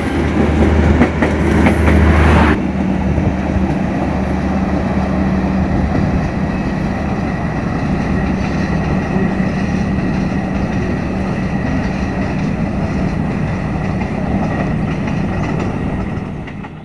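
Passenger train (KA Lodaya) running past on the rails, with the wheels clattering. About two and a half seconds in, the sound changes abruptly to a steady rumble with a low hum.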